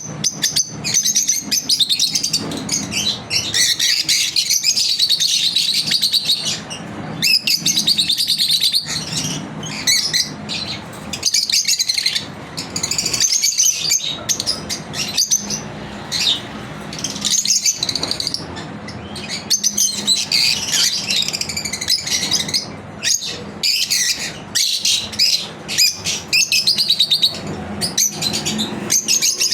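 Lovebirds chirping, fast high-pitched chatter in long runs broken by short pauses.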